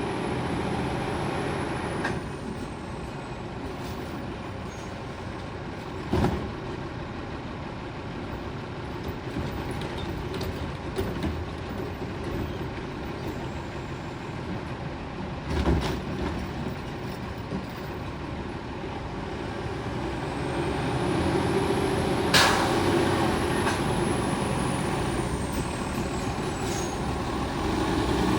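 Heil STARR automated side-loader garbage truck running, its diesel drone steady, with three sharp knocks and a faint high whine that rises and falls twice, growing louder near the end.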